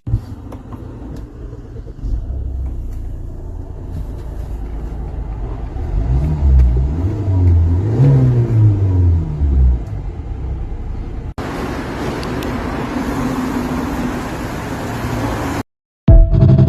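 Hyundai Palisade engine being cranked over in a no-start diagnosis: a low, steady rumble, with the pitch rising and falling several times in the middle. The sound changes abruptly about two-thirds of the way in and ends in a short, loud burst.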